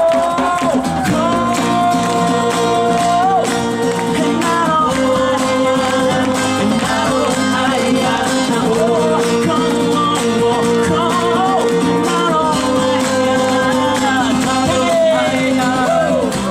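Live band performance of an upbeat song: guitar and band accompaniment under a melody carried by a voice.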